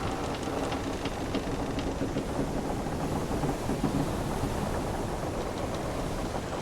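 Wooden sailing ship's timbers creaking and groaning over a steady wash of sea waves, with faint ticks near the start and near the end.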